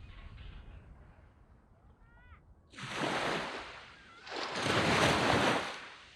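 Two waves breaking and washing up a sand beach, about a second and a half apart, the second louder and longer. A brief faint high call comes just before the first wave.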